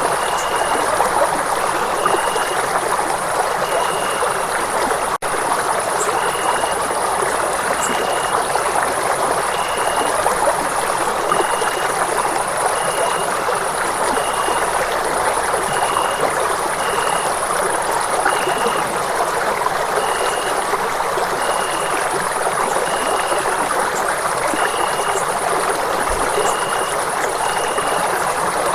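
Running water rushing steadily, like a stream. Over it a short high chirp repeats about once a second, and the sound drops out for an instant about five seconds in.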